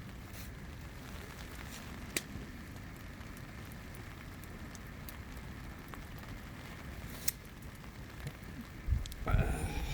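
Wood campfire crackling, with a few sharp pops, two of them standing out.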